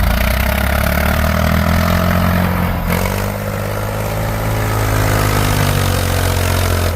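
An engine running, its pitch rising and falling as it revs up and down. It is back in running order after ice was cleared from its fuel line, fuel separator and fuel filter.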